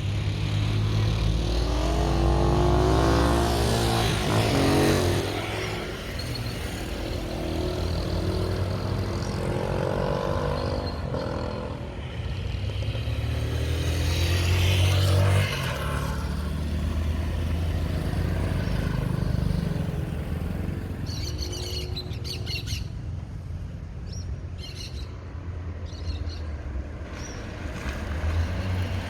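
Motor vehicles passing on a street over a steady low engine rumble; birds chirp a few times in the second half.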